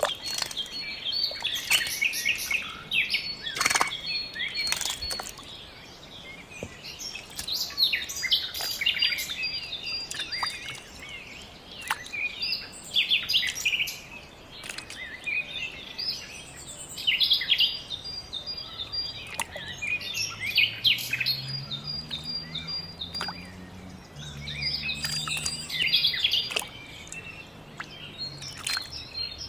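Several birds chirping and calling, with many short high chirps and runs of quick repeated notes that come and go all through.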